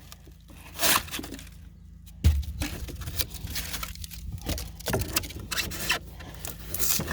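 Pour-in flotation foam being pried and scraped out of a boat hull: a run of irregular scraping and crunching sounds, with a heavier thud a little over two seconds in.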